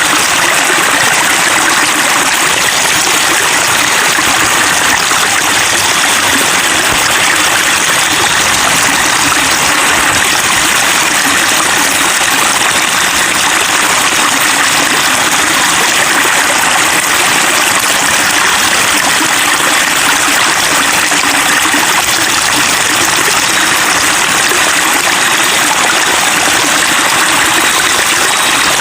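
Steady babbling of flowing water, a stream running over stones, even and unchanging throughout.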